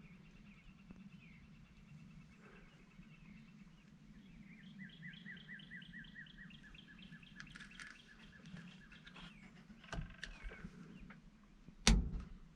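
A bird calling a rapid series of repeated short notes, about five a second, over a steady low background hum. Near the end comes one loud sharp knock, with a few fainter clicks just before it.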